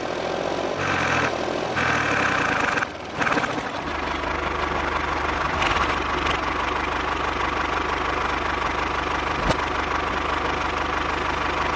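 A small motor running, shifting in pitch for the first few seconds, then settling about four seconds in into a steady low hum.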